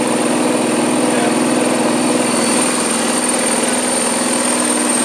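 Hotpoint Aquarius WD420 washer-dryer running under test: a steady motor hum from the drum drive, with a thin high whine above it.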